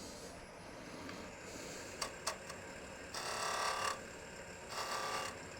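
Sandpaper held against the sharp corners of a pine disc on the lathe to ease them: two short sanding passes, the first about three seconds in and lasting under a second, the second shorter, after a couple of light clicks.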